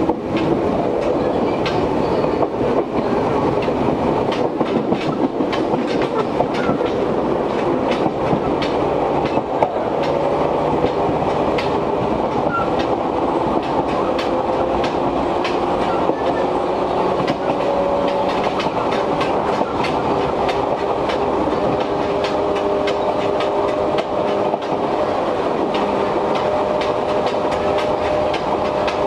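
Izuhakone Railway 1300 series electric train running, heard from inside the car: a steady rumble with frequent sharp clicks and rattles from rail joints and the clanging gangway plates between cars, over strong air-conditioning noise. A faint whine climbs slowly in pitch about a third of the way in.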